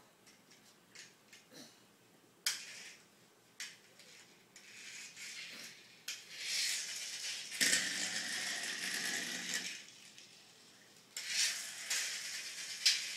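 Small objects being handled: a few scattered clicks, then two longer stretches of rustling and rattling.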